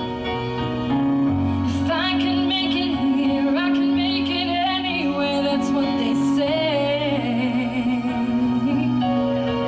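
A female singer sings a slow, held melody with vibrato over sustained accompaniment chords. The voice comes in about two seconds in and fades out near the end, while the chords carry on.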